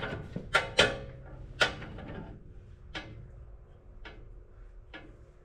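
Hammer blows on a cam bearing driver, knocking cam bearings out of a CAT D4D engine block: three sharp metal strikes in the first two seconds, then lighter taps about once a second, each leaving a ringing metal tone.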